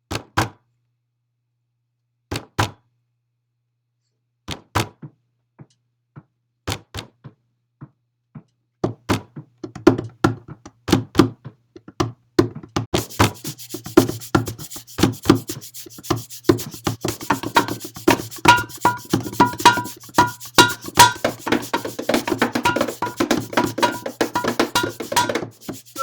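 Irregular sharp clicks and knocks, few and far apart at first, coming faster and denser from about nine seconds in. A steady hiss joins them about halfway through.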